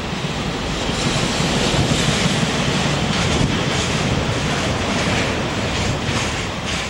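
Freight trains of tank wagons and empty container flatcars rolling past on steel rails: a steady rumble of wheels with a few faint clacks, easing near the end as the last cars go by.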